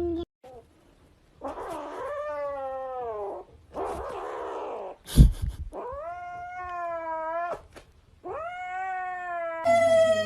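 A cat yowling in four long drawn-out calls, each falling in pitch at its end. A sharp knock comes about five seconds in.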